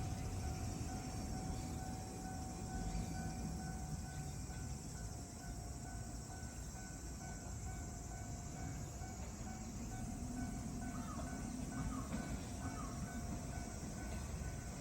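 A train running on the line with a low rumble, alongside a steady electronic tone that pulses evenly and repeatedly.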